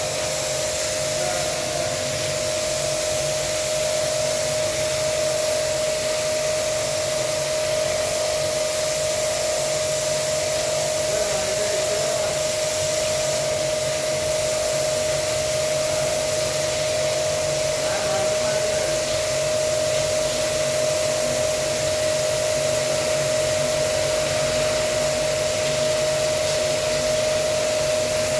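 Water pressure washer running steadily for the AC cleaning, a constant motor whine over the hiss of the water jet.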